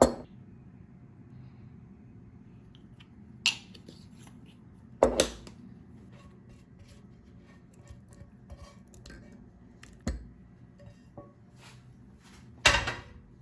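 Kitchen utensils and dishes being handled: a handful of sharp knocks and clinks spaced a few seconds apart, with small clicks between them, over a faint steady low hum.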